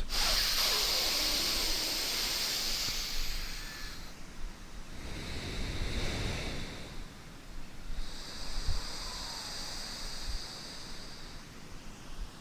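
Slow alternate-nostril breathing (nadi shodhana): air hissing in and out through one nostril at a time. The sound swells and fades about three times, once for each long breath.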